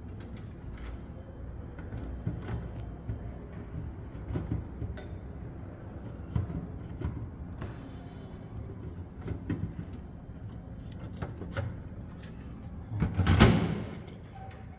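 A hard drive being fitted back into a desktop computer case: scattered light clicks and knocks of metal and plastic being handled, with one louder scraping clatter near the end.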